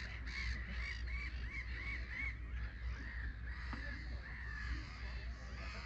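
Birds calling in a rapid run of short calls that rise and fall in pitch, about three or four a second, over a steady low hum.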